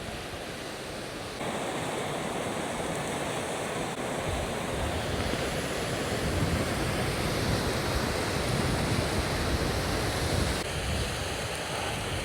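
Blizzard wind buffeting the microphone on an open chairlift, a steady rushing noise with low rumble that gets louder about a second and a half in and gusts.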